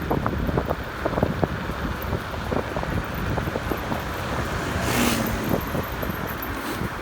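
Wind buffeting the microphone of a rider on a fast-moving electric scooter, a steady low rumble with irregular crackles, with a brief hiss about five seconds in.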